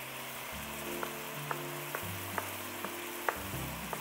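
Chicken adobo sizzling as it fries in a wok, with several light clicks of a utensil against the pan.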